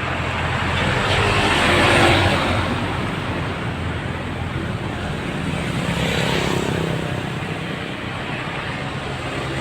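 Road traffic passing, heavy trucks among it: a steady low engine rumble with tyre noise. One vehicle passes loudest about two seconds in, and another around six seconds.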